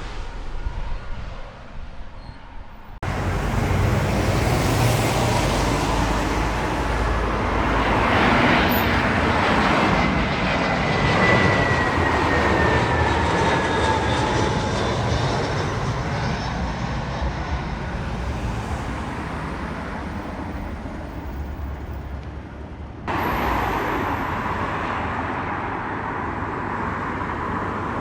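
Jet airliner's engines passing close by, a loud steady rush with a high whine that slowly falls in pitch as the aircraft goes past. The sound changes abruptly about three seconds in and again near the end.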